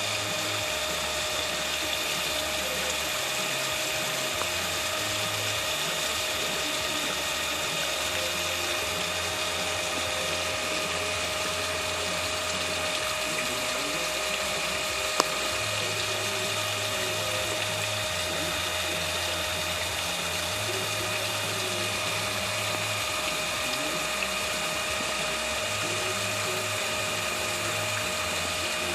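A small motor running steadily, with a constant whine and hum and no change in speed. There is a single sharp click about fifteen seconds in.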